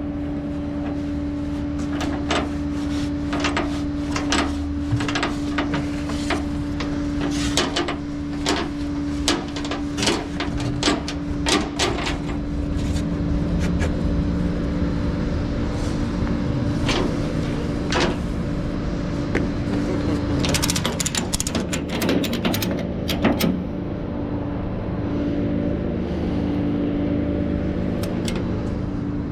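Steady hum of a running flatbed tow truck, with many sharp metallic clicks and clanks over it that come in a long run, pause, then return before stopping about three-quarters of the way through; the hum changes pitch near the end.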